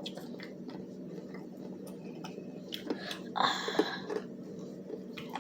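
Eating sounds: chewing crispy fried chicken, with small mouth clicks over a steady low room hum, and a brief louder noise about three and a half seconds in.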